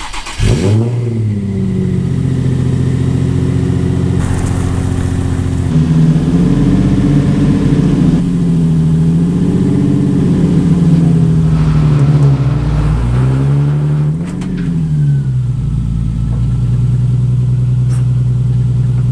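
Car engine running and being revved: it comes up sharply about half a second in, its pitch rises and falls several times, then it settles to a steady note near the end.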